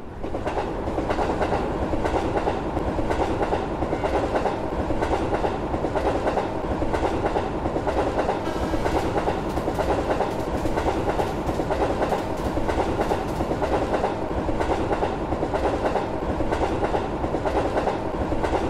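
A train running along the track: a steady rumble of wheels on rails with a faint steady hum, fading in at the start.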